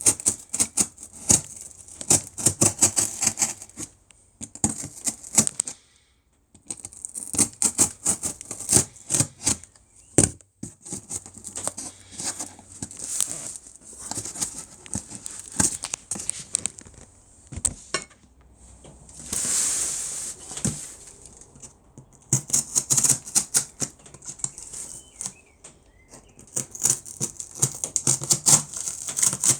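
Packing tape being pulled off the roll in repeated runs, a fast crackling screech with brief pauses between pulls, and a smoother stretch of tearing and rubbing about two-thirds of the way through.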